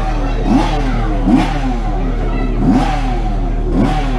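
Motorcycle engines revving hard, pitch rising and dropping away about four times in quick succession, like bikes accelerating past on the track.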